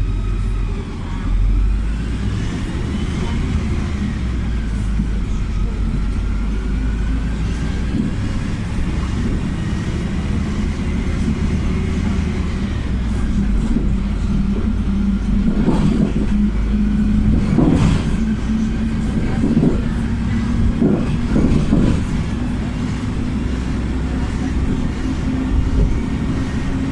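A PAZ 320414-04 Vector city bus with a YaMZ-53423 natural-gas engine, heard from inside while driving. There is a steady low engine rumble and a whine that slowly rises and falls with speed. Several knocks and rattles come about two-thirds of the way through.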